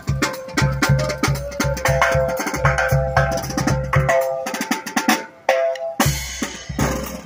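Marching band playing, with brass and a steady bass-drum and snare beat. About four seconds in the drums stop for roughly two seconds while the held notes carry on, then the beat comes back.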